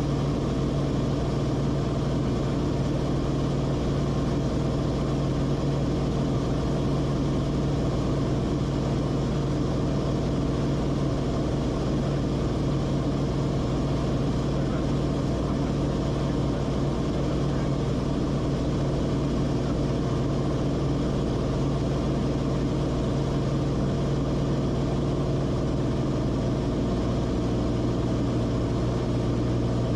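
Cessna Corvalis TTX's turbocharged six-cylinder engine and propeller droning steadily in cruise. Its note drops slightly near the end, a small power or RPM change.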